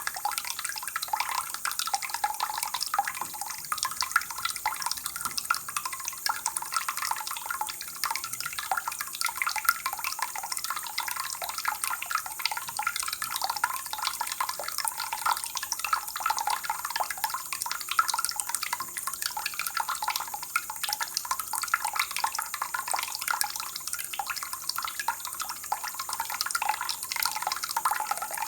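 Water trickling and splashing steadily, a dense, even spatter of small drops with no change in flow.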